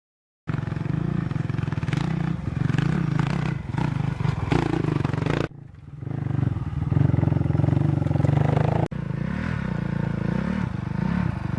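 Rally motorcycle engines running hard, cut together from several shots. The sound starts half a second in, dips briefly about five and a half seconds in and rises again, and switches abruptly near nine seconds.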